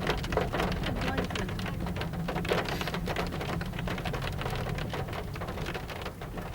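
Heavy rain falling, a dense spatter of drops striking close to the microphone, over a steady low rumble.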